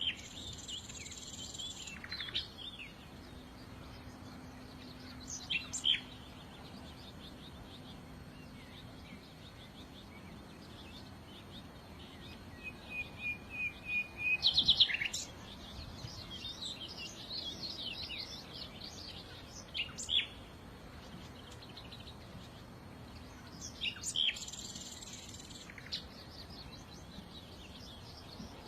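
Small songbirds chirping and singing in short, separate phrases of quick high notes, with a fast run of repeated notes about halfway through leading into the loudest phrase.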